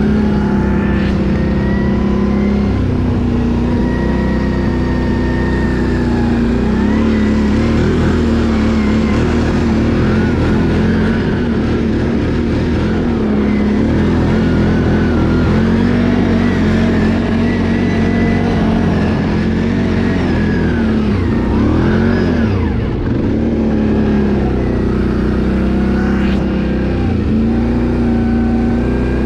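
Can-Am ATV engine running under way, its pitch holding steady for stretches and shifting with the throttle, with a quick dip and rise a little past the middle.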